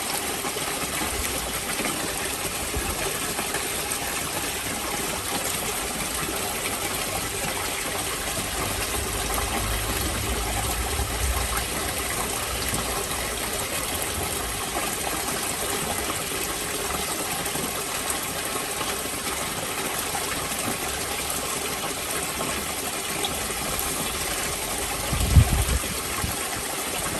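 Steady rushing noise of running water, with a brief low thump about 25 seconds in.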